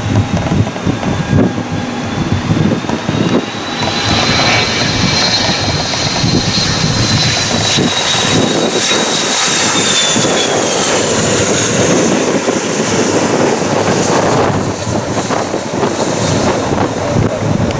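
Allegiant jet airliner passing with a loud engine rumble. A high whine rises about four seconds in, holds, and then slides down in pitch as the jet goes by.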